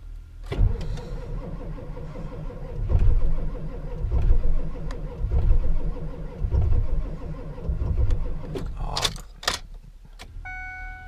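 Ford 7.3-litre V8 diesel cranking slowly and unevenly in the cold without catching. The batteries are dying. The cranking stops about nine seconds in, followed by a couple of short clicks.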